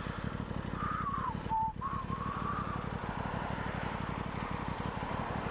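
Aprilia Tuono 660's parallel-twin engine running while riding, with wind noise. About a second in, a short whistle-like tone falls and then holds for a little over a second.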